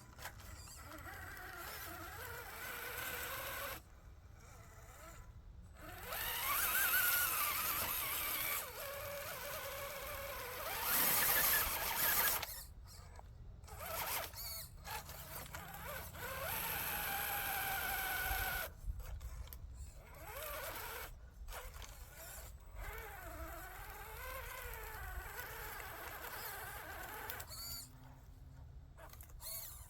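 Small electric motor and gear train of a radio-controlled rock crawler whining, its pitch rising and falling with the throttle, cutting out abruptly several times between runs.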